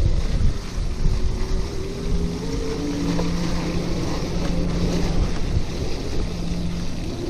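Wind buffeting the microphone of a chest-mounted camera on a moving electric bicycle, a dense low rumble, with a low steady hum that comes and goes and a faint tone rising about two seconds in.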